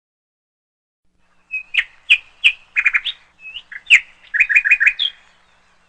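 A bird calling: sharp chirps and short whistles, with two quick runs of four or five notes. It starts about a second and a half in and stops about five seconds in.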